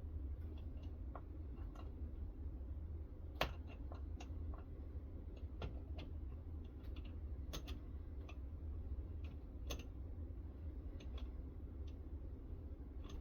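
Scattered light clicks and taps, irregular and a few a second, with one sharper click about three and a half seconds in, over a steady low hum.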